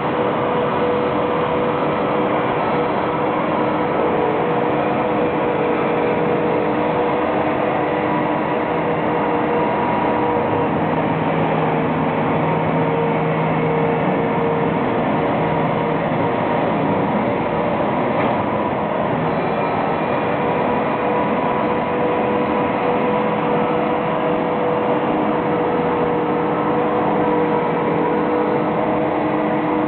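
Tractor-mounted power sweeper running steadily: an even engine drone with held humming tones over the rush of the broom.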